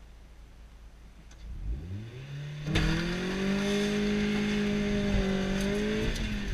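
A 2001 Mazda Miata's four-cylinder engine heard from inside the open cockpit. It rises in pitch from about a second and a half in, then gets sharply louder near three seconds as the car accelerates hard at high revs. The pitch drops near the end as the driver shifts up a gear.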